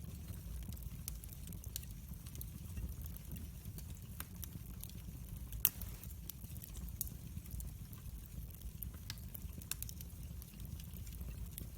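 Wood fire in a fireplace crackling: scattered sharp pops and snaps over a low steady rumble, with one louder pop about halfway through.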